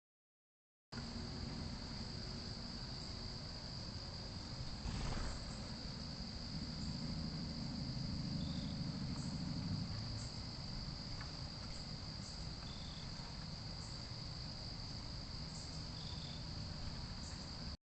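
Nighttime insect chorus: one steady high trill, with a few short, lower chirps every few seconds. There is a brief rustle or knock about five seconds in.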